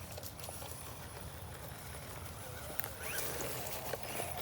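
Brushless RC buggy running off-road: short rising whines from its electric motor about three seconds in, scattered small clicks, and a low rumble underneath.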